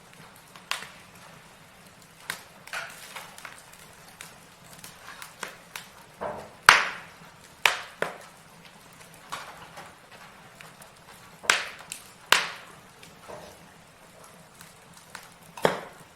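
Wood fire crackling in a fireplace: burning logs giving irregular pops and snaps, with a handful of louder sharp cracks among the softer ones.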